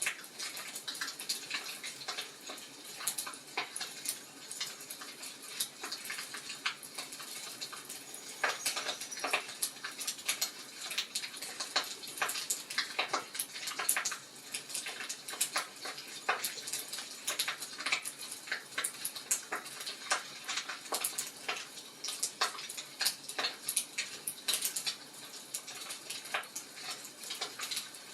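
Wood fire crackling: irregular sharp snaps and pops, several a second, over a soft hiss.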